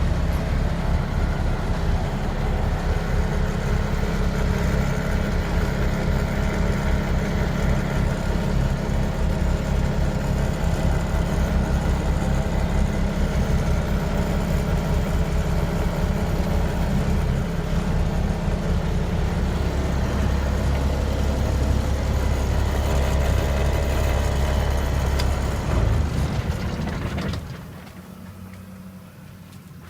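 1984 International S 2200 truck's 400 Cummins inline-six diesel idling steadily with a deep drone. It shuts off near the end, and the sound drops away and fades.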